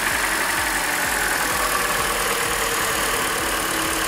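Hyundai Elantra's 1.8-litre four-cylinder engine idling steadily with a ticking knock, which the owner takes most likely for piston slap.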